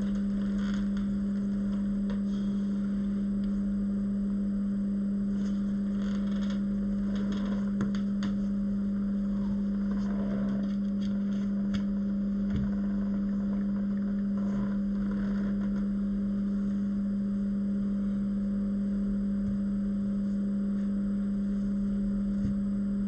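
A steady low hum on one pitch, with faint clicks and small handling noises now and then.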